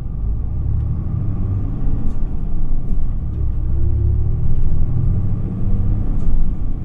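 Isuzu QPG-LV234L3 city bus's diesel engine running under load, heard from inside the passenger cabin: a heavy low rumble, with the engine note rising steadily as the bus accelerates.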